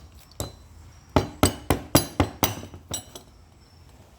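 A quick run of about eight sharp metallic clicks and clinks with a short ring, as metal tools and engine parts knock together while a connecting-rod cap is handled on an opened engine.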